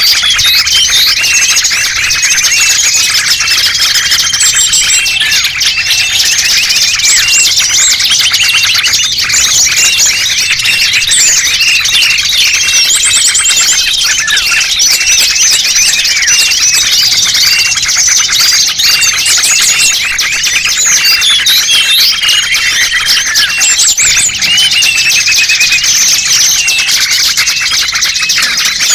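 Dense chorus of many small birds chirping and twittering over one another without a break: a lure recording made to draw small wild birds in.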